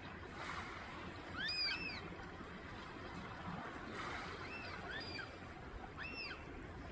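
Short runs of high, arched chirping calls, a few notes at a time, repeated four times, over a steady wash of water and wind noise.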